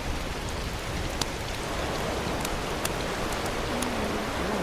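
Steady rushing wind noise on the microphone, with scattered faint ticks.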